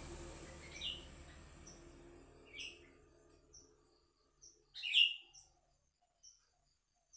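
A few short, high bird chirps, about a second in, near 2.5 seconds and loudest near 5 seconds, with faint ticks between them, over a hiss that fades away in the first few seconds. No dove coo falls within.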